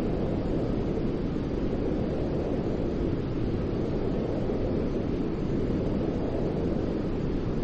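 Steady white noise for soothing a baby, weighted toward the low end: an even, deep rushing hiss that does not change.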